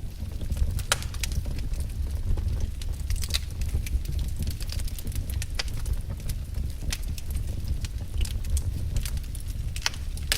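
Firewood burning: irregular sharp crackles and pops over a steady low rumble of the flames.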